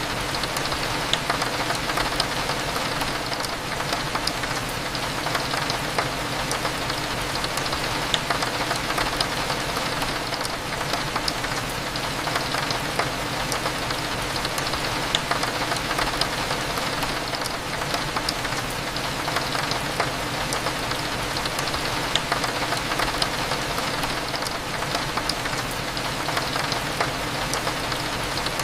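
Steady rain with many small, sharp drop ticks, over a faint steady low hum.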